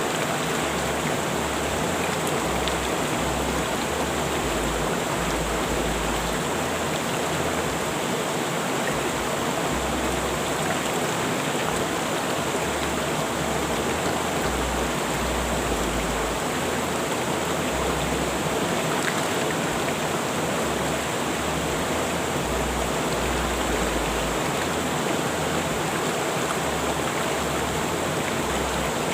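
A rushing river, its water flowing in a steady, even rush with no breaks or changes.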